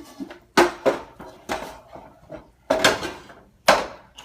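A series of loud, sharp knocks on something solid, about five of them at uneven intervals, with lighter clatter in between.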